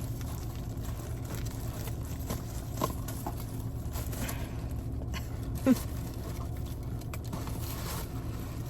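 Steady low engine-like hum, as of a car idling, with a few light clicks and rustles of handling.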